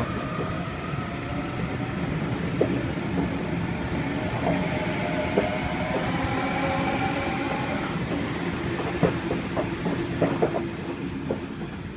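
Waratah A-set electric train pulling out of the station: a steady rumble with the whine of its traction motors, then a run of sharp clicks from the wheels over rail joints in the last few seconds.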